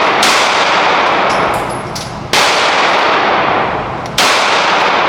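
Gunshots at a shooting range: three loud shots about two seconds apart, each followed by a long echoing decay, with fainter sharp cracks between them.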